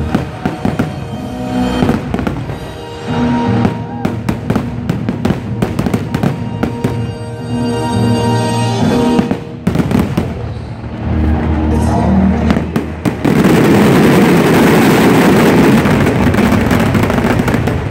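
Fireworks shells bursting and banging over loud show music. About 13 seconds in, a loud continuous wash of crackling noise takes over as the finale barrage fires.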